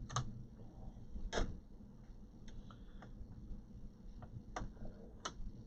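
Light, irregular clicks and taps of hands handling the plastic and metal parts inside an all-in-one desktop computer as the newly fitted drive is taken back out, about seven in all.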